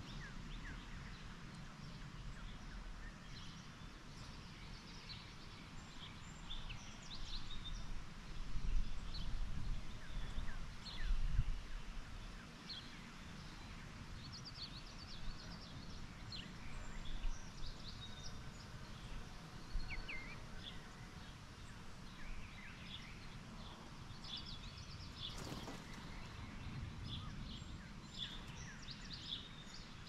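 Small songbirds chirping and calling, with short high notes scattered throughout, over a low steady rumble that swells for a few seconds about a third of the way in. A single sharp click sounds near the end.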